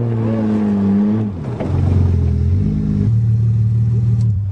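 1982 Toyota Cressida's engine running, its revs falling over the first second as the car slows, then holding steady at a lower speed.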